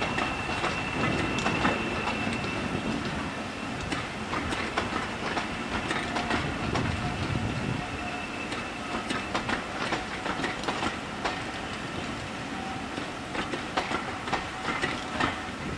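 Train of passenger coaches rolling past, its wheels clicking over the rail joints over a steady rumble. A thin, high, steady squeal runs through the first half and fades out about nine seconds in.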